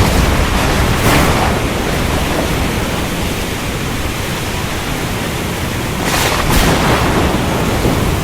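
Steady rain, a dense even hiss, with a few brief louder swells about a second in and again around six seconds in.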